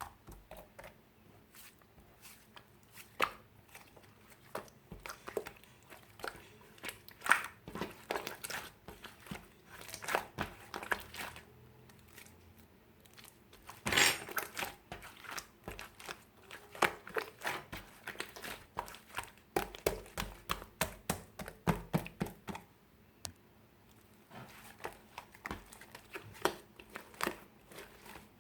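Slime being squeezed and mixed by hand with liquid clay: irregular sticky clicks, pops and crackles in quick clusters, with a couple of brief quieter pauses.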